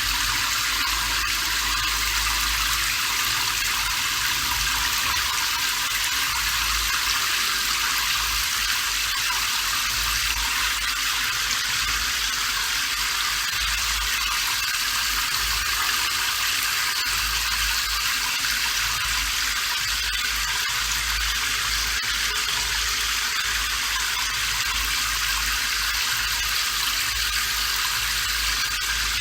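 Steady rain, an unbroken hiss of falling water with a low rumble underneath.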